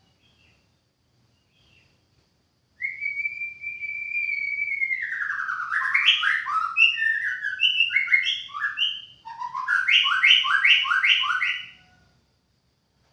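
White-rumped shama singing: one long whistled note that slides downward, then a run of varied rich whistled phrases, and after a short break a quick string of repeated notes that stops near the end.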